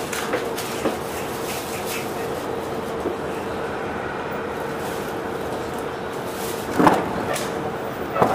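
Interior running sound of a Sotetsu 7000 series electric train's motor car with a Hitachi GTO-VVVF inverter, just after leaving a station: a steady inverter tone over wheel and rail noise. The tone cuts out about six and a half seconds in, followed by a short loud knock and another near the end.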